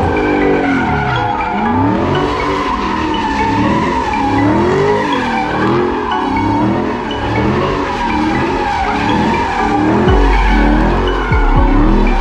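A car's tyres squealing steadily in a continuous skid while its engine revs rise and fall over and over, typical of a car spinning donuts. About ten seconds in, a heavy low rumble joins.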